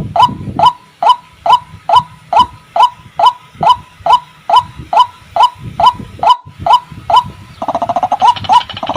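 White-breasted waterhen (ruak-ruak) calling, a short note repeated about two and a half times a second, with a faster rattling call joining in about three-quarters of the way through. This is the bird's lure call, the kind used to draw in waterhens.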